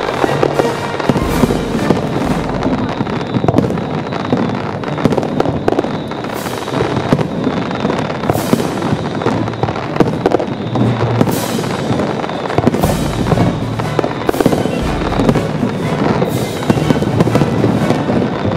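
Aerial fireworks bursting in quick, continuous succession, booms and crackles overlapping, with music playing underneath.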